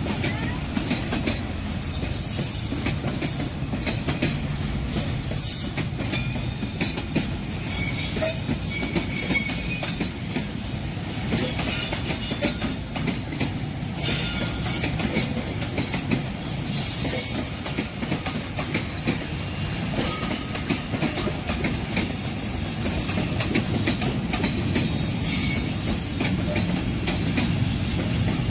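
A train hauled by a D19E diesel locomotive rolling past, its wheels squealing in scattered high bursts and clacking over rail joints above a steady low rumble.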